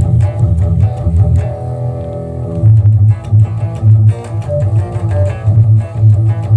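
Electric guitar played through a car audio amplifier and subwoofer, with a heavy low end pulsing in rhythm under the guitar notes.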